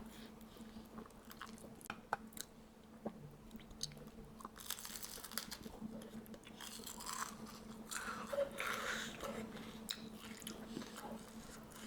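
A person biting and chewing crunchy food, with scattered sharp crunches and two louder stretches of crunching about five and seven to nine seconds in.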